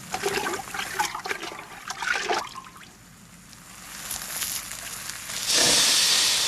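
Chip pan fire crackling, then a loud hiss starting about five and a half seconds in and slowly fading as a damp cloth is laid over the burning pan to smother it.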